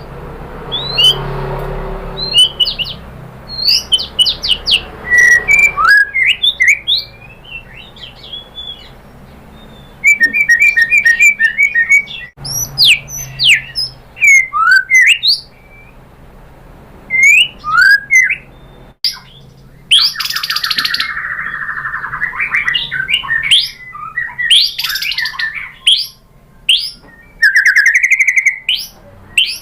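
White-rumped shama (murai batu) singing a loud, varied song: clear sliding whistles, quick runs of repeated notes, and a long buzzy rattle about two-thirds of the way through.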